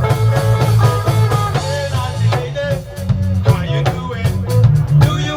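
Live reggae band playing a lovers rock groove: a heavy bass line under drum kit and guitar.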